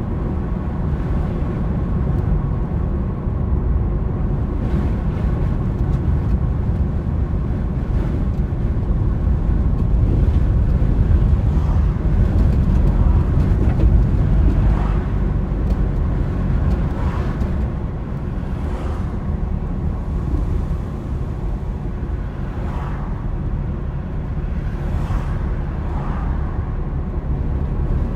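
Car on the move: a steady low rumble of engine and road noise, swelling for a few seconds about halfway through, with a few faint brief swishes.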